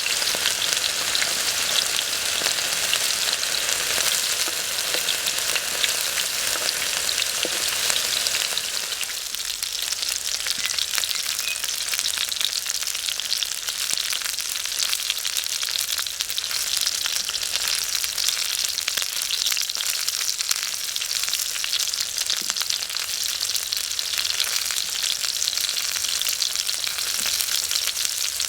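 Food frying in a pan over a wood fire: a steady, dense crackling sizzle that eases slightly about nine seconds in.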